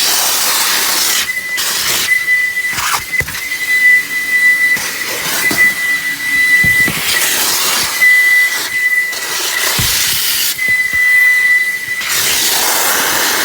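JE Adams Turbo Vac car wash vacuum running, with a steady high-pitched whistle over a loud rushing hiss of suction air that swells and fades.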